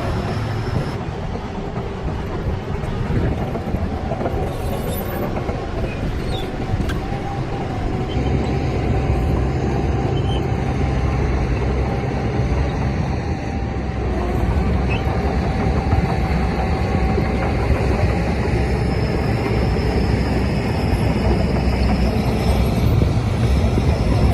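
Diesel engine of a Shantui DH17C crawler bulldozer running under load, a steady heavy drone with a faint higher whine over it, growing louder about a third of the way in and again past the middle.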